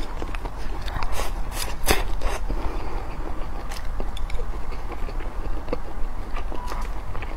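Close-miked chewing and biting of spicy braised chicken giblets with rice, with many short sharp clicks scattered throughout.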